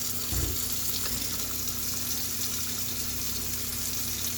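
Tap water running steadily into a sink as small air filter parts are rinsed under it, with a brief low knock about half a second in.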